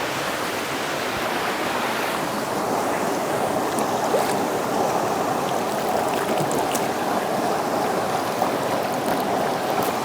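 Creek water running steadily over rocks close to the microphone, an even rushing with a few faint ticks.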